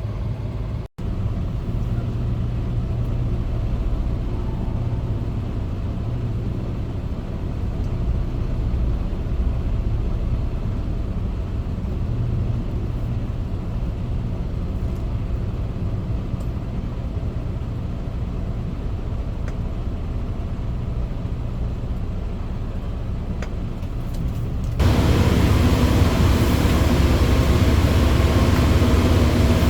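Semi truck's diesel engine idling with a steady low rumble, heard from inside the cab. About 25 seconds in, a louder, steady rushing noise sets in over it and holds.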